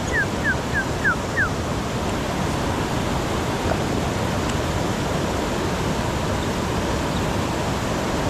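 Steady rush of flowing river water. Over the first second and a half it is joined by a quick run of about seven short, high chirps, each falling in pitch.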